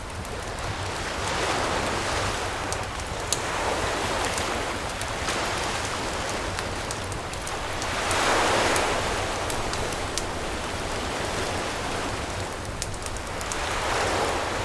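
Sea waves washing onto a beach, swelling and fading every few seconds, the biggest about two-thirds of the way through, with the sharp pops and crackles of a wood campfire scattered over them.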